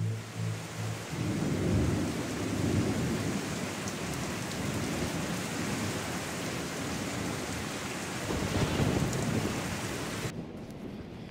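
Steady heavy rain with rolling thunder, the low rumble swelling about two seconds in and again near the end. The storm cuts off suddenly shortly before the end.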